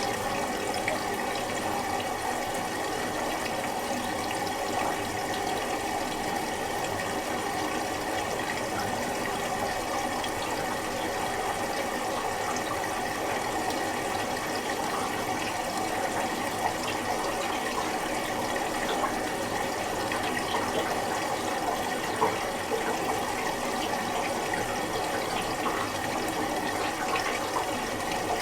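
Miele Little Giant PWM 507 commercial washing machine taking in water for the first rinse: a steady rush of running water.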